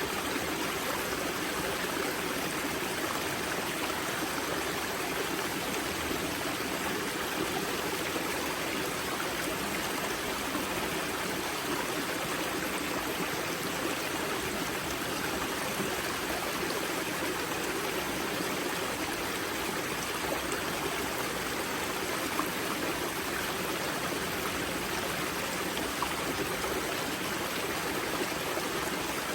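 Water of a river spring's wellhead flowing and splashing over rocks in a steady rush.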